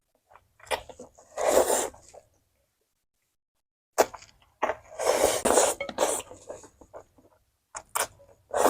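Close-miked eating sounds: three loud, noisy bursts of mouth noise with sharp clicks between them, and a dead-silent gap of over a second in the middle.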